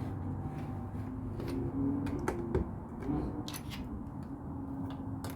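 Plastic LEGO pieces being handled and pressed together: a few scattered small clicks over a steady low hum.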